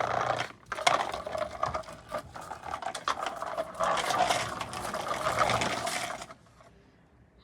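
Toy tractor running with a steady whirring and rapid plastic clattering, cutting off suddenly about six seconds in.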